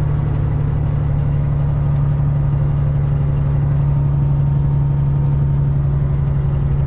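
Semi truck's diesel engine running steadily while driving, heard from inside the cab as an even low drone.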